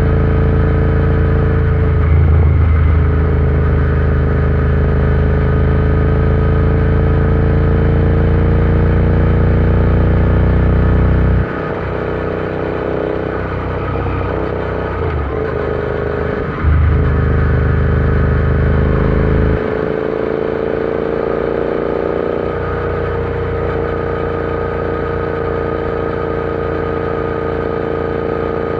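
Royal Enfield Interceptor 650's parallel-twin engine running at a nearly steady speed under way, its pitch drifting only slightly. A heavy low rumble under it drops away about eleven seconds in, comes back briefly, and drops again near twenty seconds.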